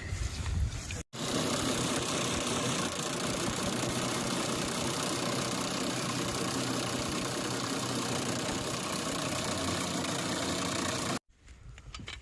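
Handheld electric wrench running steadily under load as it spins an improvised boat propeller. The motor's even whirr starts abruptly about a second in and cuts off sharply near the end.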